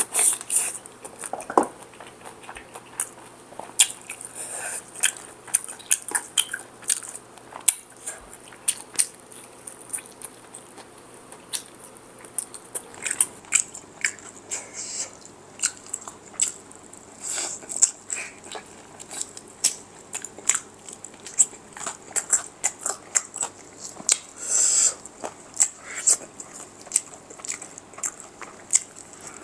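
Close-miked biting and chewing of crispy fried chicken, with irregular crunches and crackles.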